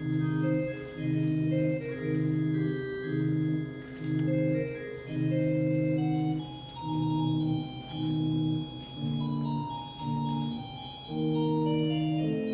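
Organ playing a piece of repeated chords, each held about half a second to a second with short breaks between them, with a higher melody moving above.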